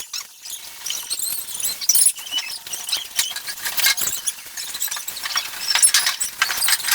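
Packaging on a new refrigerator being pulled and handled during unboxing: a dense run of crackling, rustling and squeaking.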